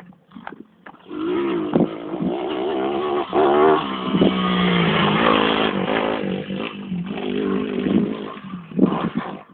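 YCF pit bike's small single-cylinder four-stroke engine revving up and down as it is ridden, its pitch rising and falling. A few sharp clicks come just before the engine sound starts about a second in.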